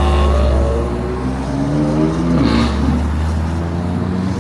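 A car driving past with its engine note falling steadily in pitch as it goes by, over a low steady rumble.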